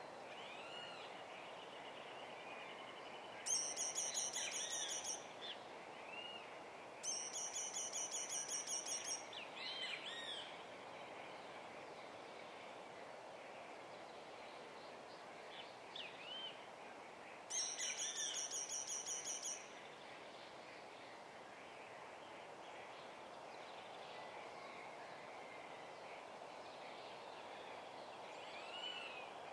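Songbirds singing: three loud, rapid, high trills of about two seconds each, the first a few seconds in, the second soon after and the third just past the middle, with faint short whistled notes scattered between them over a steady background hiss.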